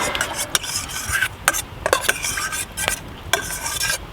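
A spoon stirring lamb shank stew in a pot, scraping through the contents with several sharp clicks of the spoon against the pot.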